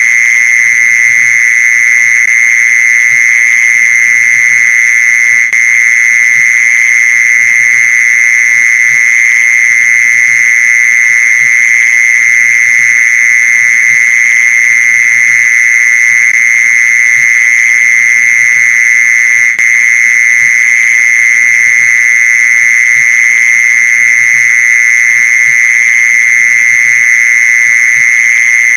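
Mole cricket calling: one continuous, steady trill at a single high pitch, with no breaks.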